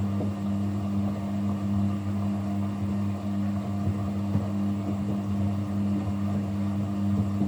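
Kunft washing machine running mid-cycle with a steady low mechanical hum.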